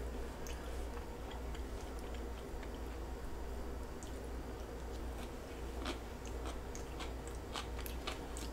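A person chewing a mouthful of cooked chicken and vegetables, with soft wet mouth sounds and small scattered clicks. A fork lightly knocks on the plate now and then, over a steady low hum.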